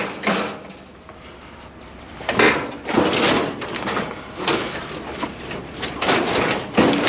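Clanking and scraping of scrap metal, bicycles and grills, being lifted and shifted into place on a load: a loud knock at the start, a lull, then a run of irregular clanks and rattles from about two seconds in.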